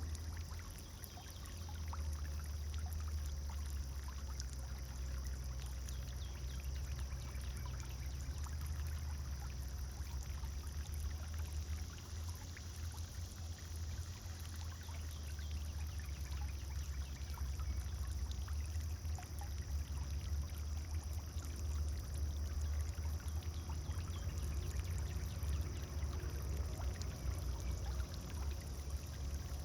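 Pond fountain with water pouring and splashing steadily into the pond, over a steady low rumble.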